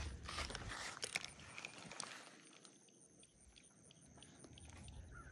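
Rustling and handling noise with scattered light clicks, loudest in the first second, and a low wind rumble on the microphone at the start and again near the end.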